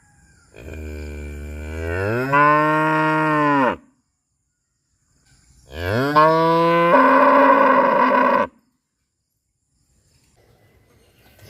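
Cow mooing: two long moos of about three seconds each, each rising in pitch and dropping away at the close, with a third beginning right at the end.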